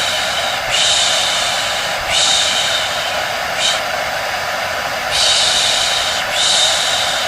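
A hair dryer running steadily with a faint hum under its airflow, and over it a voice making long, repeated 'shh' shushing sounds, one about every second or so, as used to settle a baby.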